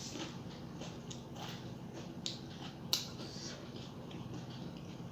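Close-up eating sounds: soft chewing with a run of small wet mouth clicks and smacks, two sharper ones a little past two seconds and just under three seconds in.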